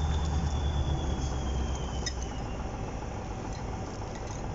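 Heavy tractor's diesel engine running, with a high whine that sinks slightly in pitch; the low engine sound and the whine both fade over the first couple of seconds. A light clink sounds about two seconds in.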